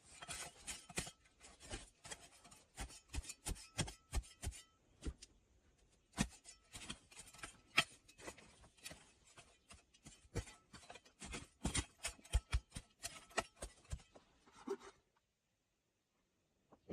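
Irregular run of short scrapes and knocks from hand work with wood and soil, stopping about fifteen seconds in.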